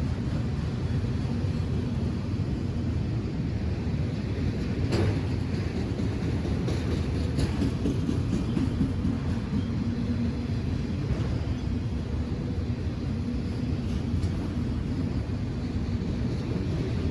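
A train rolling past on the rails: a steady low rumble with a few brief sharp clanks of wheels on track.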